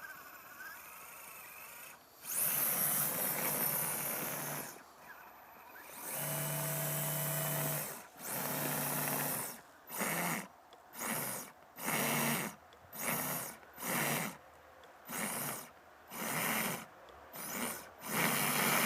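Electric motor and gear drivetrain of an RC scale crawler truck whining in bursts of throttle as its tires dig through snow. It starts with a few long pulls, then short blips about once a second, the truck rocking to work itself free from being stuck.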